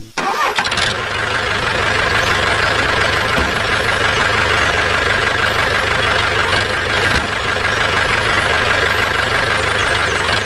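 Tractor engine running steadily, starting abruptly.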